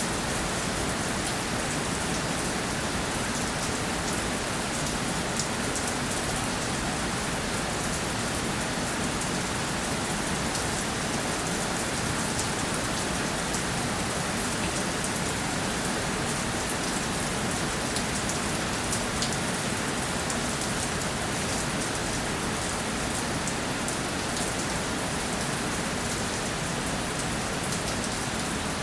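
Steady rainfall on a surface, an even hiss with many fine drop patters.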